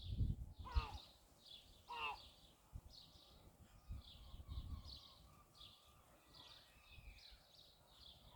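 Faint bird calls outdoors: repeated short high chirps, with two louder pitched calls about one and two seconds in. Low rumbles near the start.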